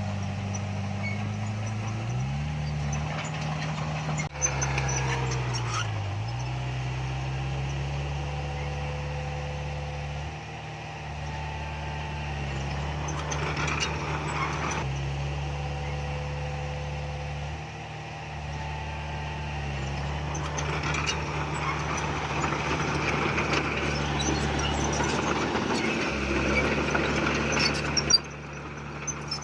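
Heavy diesel earthmoving machinery running, its engine pitch dipping and recovering a few times as it takes load. There is a sharp knock about four seconds in.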